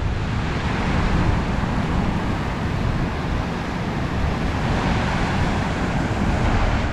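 Steady rush of falling and running water, with wind buffeting the microphone.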